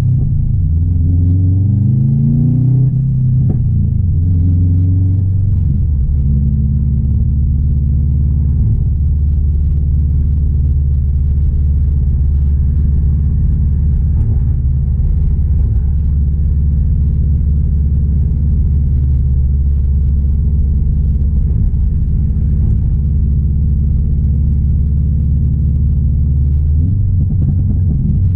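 Subaru WRX STI's turbocharged 2.5-litre flat-four running under way: the revs climb and drop a couple of times in the first few seconds as it pulls through the gears, then settle into a steady low drone while cruising, changing again near the end.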